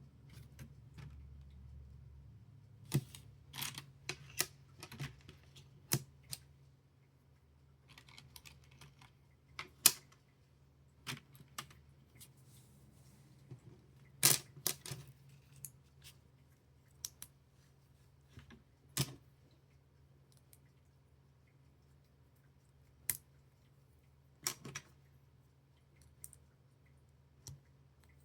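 Small plastic building bricks clicking and snapping as pieces are handled and pressed together: irregular sharp clicks, sometimes in quick pairs, a second or several apart, over a faint steady low hum.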